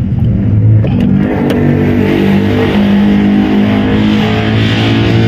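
A car engine running with a loud, steady hum, most likely the Civic's 1.6-litre D16 four-cylinder.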